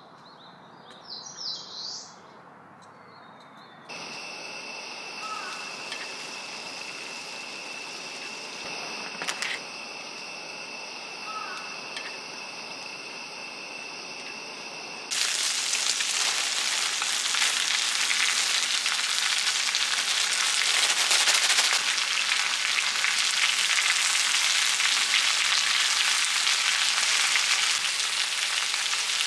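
Food frying in a hot pan. A loud, steady sizzle starts suddenly about halfway through and keeps going. Before it, a few bird chirps sound near the start, then a steady high-pitched whine with a fainter hiss.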